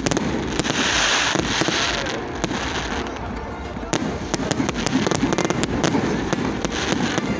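Fireworks going off in quick succession: many sharp bangs and cracks, with a hissing, crackling burst about a second in.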